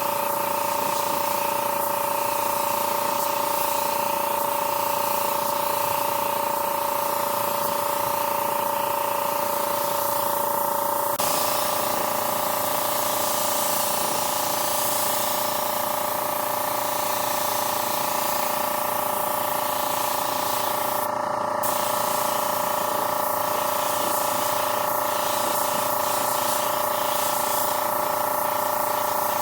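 Compressed-air spray gun spraying paint: a steady loud hiss with a constant whistling tone, which shifts slightly in pitch about a third of the way through.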